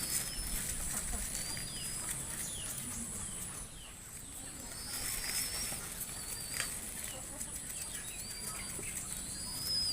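Small birds chirping: short, thin, high calls that rise and fall, repeated every second or so, over a steady high-pitched hiss.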